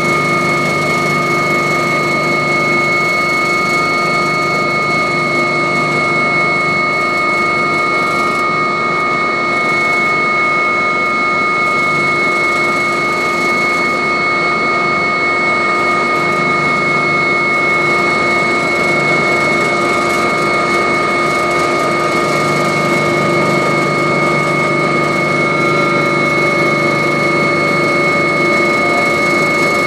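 Agusta helicopter's turbine engines and rotor running steadily: a loud, constant whine made of several high tones over an even rushing noise.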